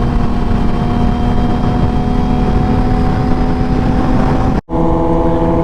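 Sportbike engine running at a steady cruising speed, one held tone over a dense low rumble. About four and a half seconds in the sound drops out for an instant and comes back with the engine holding a different steady pitch.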